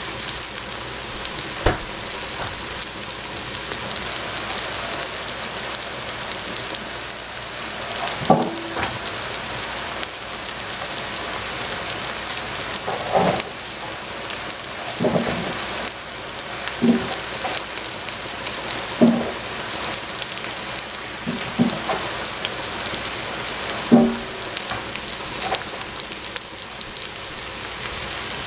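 Steady sizzling of fried tofu puffs, carrot and celery frying in oil in a stainless steel pot, with a sharper pop every few seconds.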